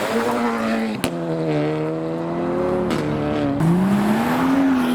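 BMW M3 accelerating hard, its engine note climbing in pitch. A sharp crack comes about a second in and another around three seconds, and the engine pulls up in pitch again near the end.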